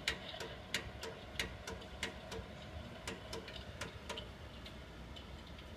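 Royal Flame Vision 23 electric fireplace hearth running, giving irregular sharp clicks two or three times a second over a low steady hum.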